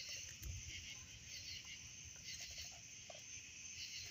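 Crickets and other night insects chirping steadily in a soft chorus.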